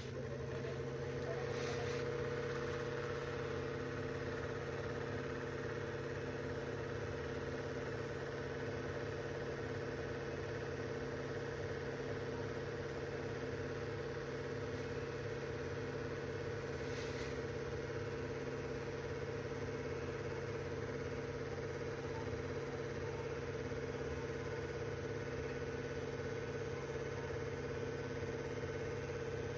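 Otari MX-5050 BIII reel-to-reel tape recorder running, its transport motors giving a steady, even hum with a whir that starts at the outset and holds unchanged.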